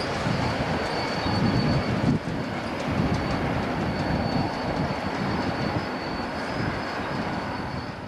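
Conrail freight train rolling past: a steady rumble of car wheels on the rails, with a few faint clicks and a thin, steady high tone above it, fading near the end.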